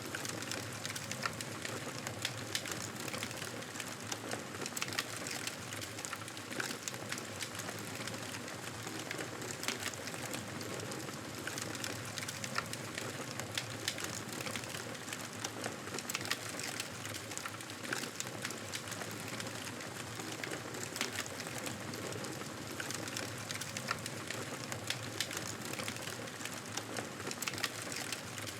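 Wood fire crackling, with frequent small sharp pops and snaps over a steady hiss.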